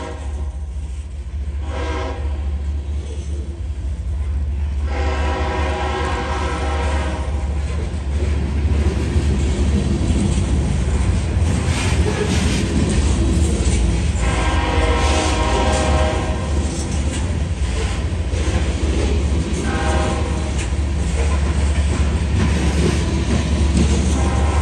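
Freight cars rolling past with a steady low rumble and wheel clatter, while the lead locomotive's horn blows several separate blasts: long, long, short, long in the second half, the usual grade-crossing signal.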